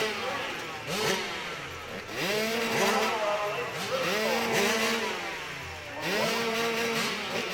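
Motorcycle engine revving hard in repeated surges, its pitch rising and then holding about every two seconds as it climbs.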